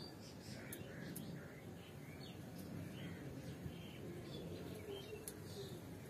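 Small birds chirping, with short calls scattered throughout and a few faint sharp clicks among them, over a steady low background hum.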